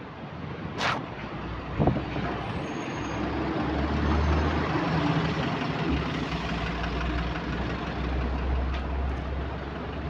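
Bus diesel engine running under way, heard from inside the bus, its low drone building about three seconds in and then holding steady. There is a brief sharp sound about a second in and a thud just before two seconds. The engine has what the uploader calls a subtle rod knock.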